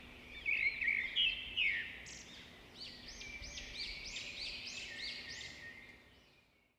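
Small birds chirping: a few scattered chirps, then a steady run of repeated chirps, about three a second, that stops a little before the end.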